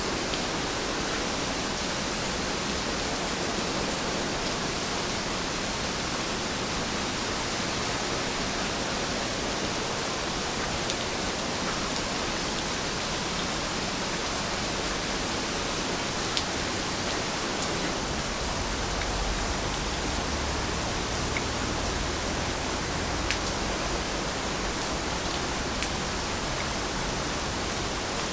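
Steady rain falling, an even hiss with a few sharper single drop hits scattered through it. A faint low rumble comes in about two-thirds of the way through.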